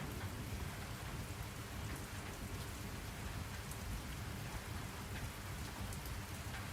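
Steady rain falling: a continuous hiss with scattered patters of individual drops over a low, even rumble.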